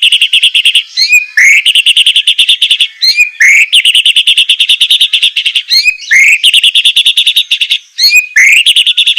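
White-rumped shama (murai batu) giving harsh, fast 'besetan' chatter: a quick rising note followed by a rapid rattling trill, repeated about five times with short pauses between.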